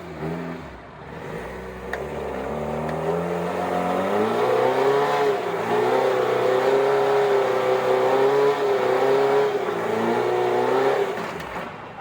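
Off-road 4x4's engine revving hard as it climbs a rock obstacle, its pitch rising and falling with the throttle and growing louder before it falls away near the end.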